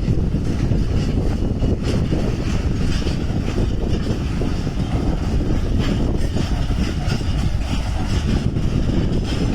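Loaded coal hopper wagons of a goods train rolling past slowly: a steady rumble of wheels on rail with scattered clicks and knocks, and wind on the microphone.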